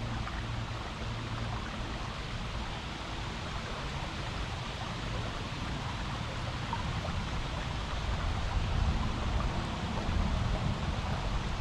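Creek water rushing steadily over rocks, with a gusty low rumble underneath that grows louder about two-thirds of the way through.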